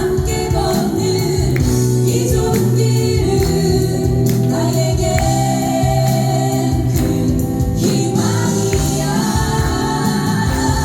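Live vocal group singing a song with band accompaniment and a steady beat.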